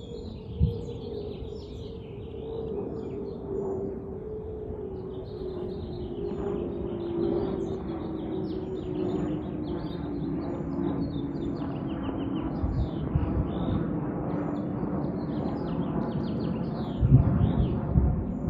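Aircraft engine drone overhead, slowly falling in pitch as the plane passes and moves away. Birds chirp throughout, and there are a few low thumps near the end.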